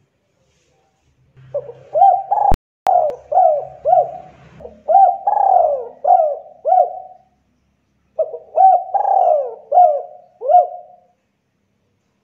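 Spotted dove cooing: two bouts of repeated arching coos, about two notes a second, the second bout starting about eight seconds in. Sharp clicks cut across the first bout.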